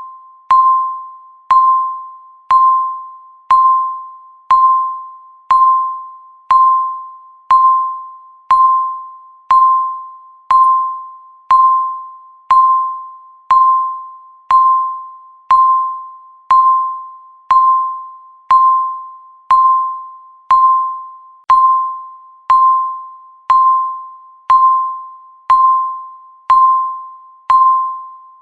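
Countdown timer beeping once a second: a short electronic tone at one pitch that sounds sharply and fades away, repeated evenly.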